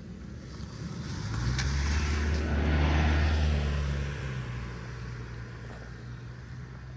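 A motor vehicle passing by: its engine hum and tyre noise rise to a peak about three seconds in, then fade away.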